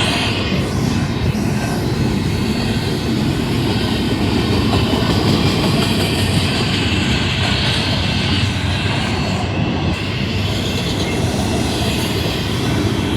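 Union Pacific intermodal freight train's cars rolling past: steady, loud noise of steel wheels on the rails.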